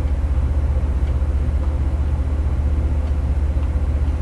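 A large engine running steadily: a loud, even low rumble with a fast, regular pulse.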